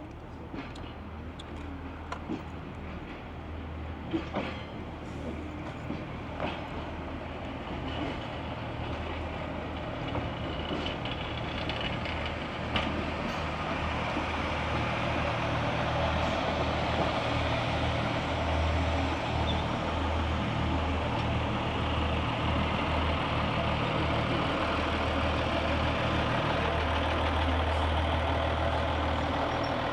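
A train running or standing near by: a steady low hum with a hiss over it that grows louder through the first half and then holds, and a few sharp knocks in the first few seconds.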